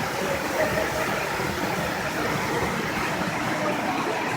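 A waterfall's steady rushing noise, falling water at an even level.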